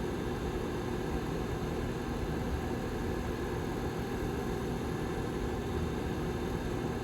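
The rear fan of a Lasko 755320 tower heater running steadily: an even rush of air with a low hum and a few faint steady tones.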